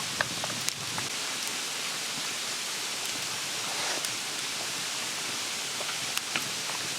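A steady, even hiss like falling rain, with a few faint light ticks scattered through it.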